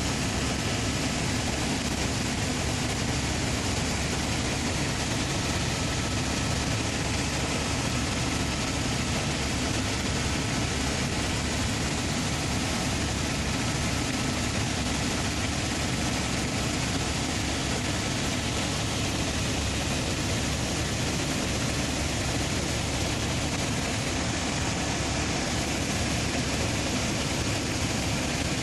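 Helicopter in flight: a steady, unchanging noise from the engine and rotors.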